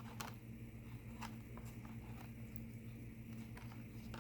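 Faint, scattered soft clicks of tarot cards being handled and laid down, a few over several seconds, over a steady low hum.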